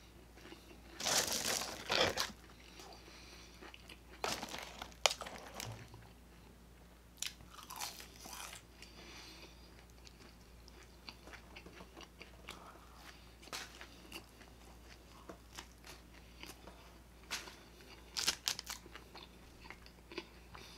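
Close-miked chewing of fast food, French fries and a bacon cheeseburger, with crunchy bites and mouth clicks coming in irregular bursts; the loudest burst is about a second in.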